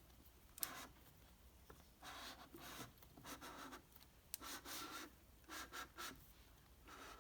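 Faint rubbing and scraping of engine parts being handled, in short strokes of about half a second, with two sharp clicks, one near the start and one about four seconds in.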